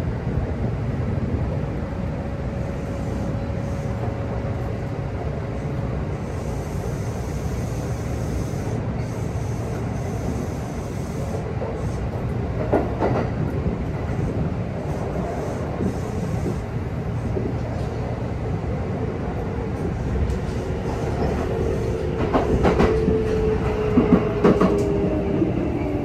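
A Kintetsu electric train with a Hitachi GTO-VVVF inverter running on the line: a steady rumble of wheels on rail with occasional clicks from rail joints. From about 20 seconds in, the inverter and traction-motor tones rise and slowly fall in pitch, the sign of the train slowing.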